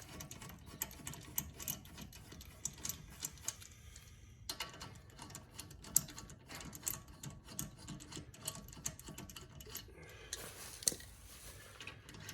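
Scattered light clicks and taps from tools and parts being handled during axle work, irregular, with a sharper click about six seconds in and another near eleven seconds.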